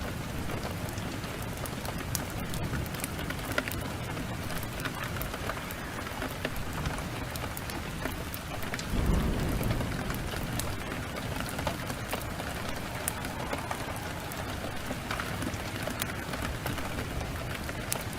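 Heavy rain falling steadily, with scattered sharp crackles from a wood fire. A low rumble of thunder swells about nine seconds in.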